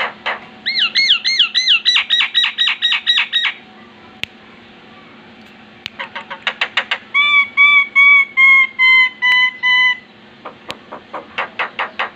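Javan myna (jalak kerbau) singing: a run of rapid looping whistles, a quick series of sharp clicks, then a row of clear whistled notes stepping slightly lower, followed by more clicks near the end, over a faint steady hum.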